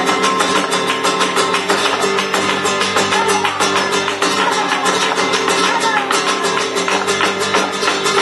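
Latin, flamenco-style music with rapidly strummed guitar and a fast, dense rhythm of strokes.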